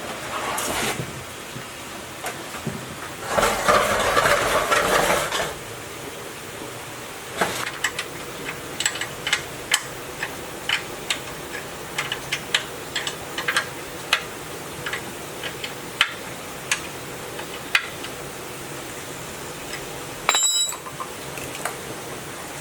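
Steady hiss with two short bursts of rushing noise in the first few seconds, then a run of light, irregular clinks and taps of small hard objects being handled, ending with a brief ringing clink.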